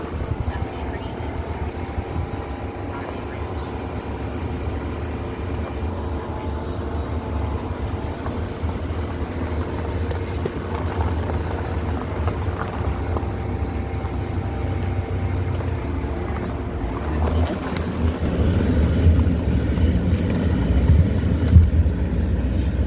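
Mercury Montego Premier AWD driving on a rough dirt truck trail: a steady low rumble of the engine and tyres with a droning hum, getting louder about three-quarters of the way through, and a single sharp knock shortly before the end.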